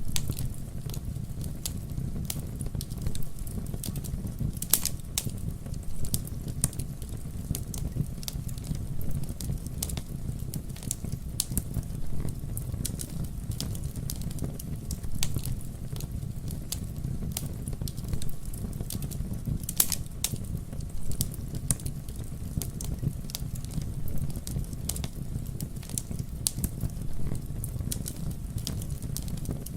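Campfire burning steadily with a low rumble, irregular crackles and occasional louder pops of burning wood.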